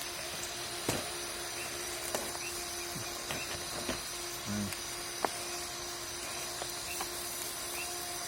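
Steady background hiss with a constant low hum and thin high steady tones, broken by scattered light clicks and small knocks.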